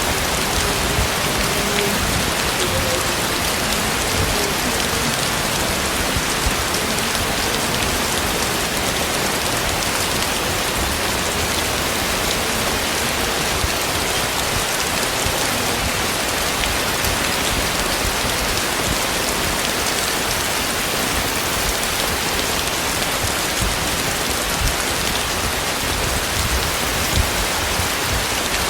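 Heavy rain falling steadily and densely.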